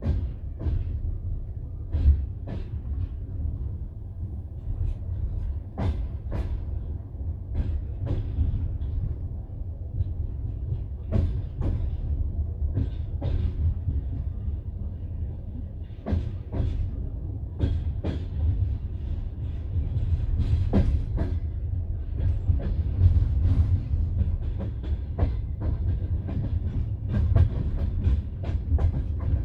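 Passenger train coach running on the rails: a steady low rumble with the clatter of wheels over rail joints, sharp clicks and knocks coming at irregular spacing.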